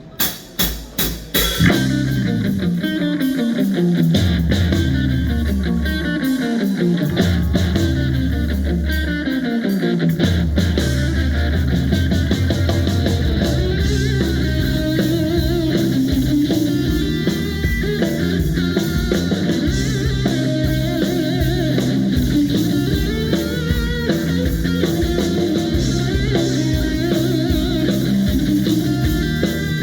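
Live rock band starting a song: a quick run of evenly spaced drum hits, then electric guitar, bass and drum kit come in together about two seconds in and play on loud and steady.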